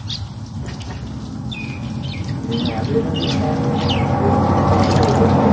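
Small birds chirping, with short high calls scattered every second or so. Under them a low rumble grows steadily louder toward the end.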